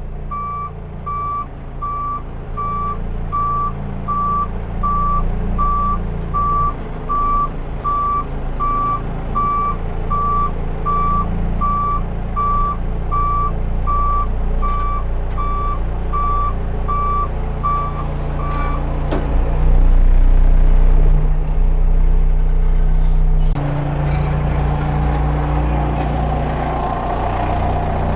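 Case 580 Super L backhoe's diesel engine running, with its reversing alarm beeping steadily, about three beeps every two seconds. The beeping stops about two-thirds of the way through while the engine keeps running, and its note changes a few seconds before the end.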